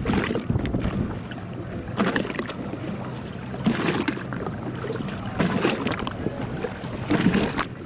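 Motorboat engine running steadily under way, with a burst of rushing water and wind about every two seconds.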